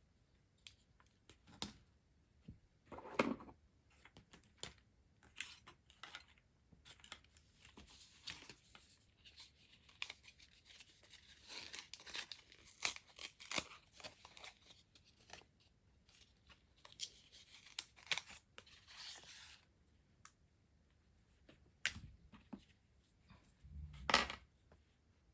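Stationery packaging being torn open and rustled by hand, with scattered small clicks and taps and two soft thumps, one about three seconds in and one near the end.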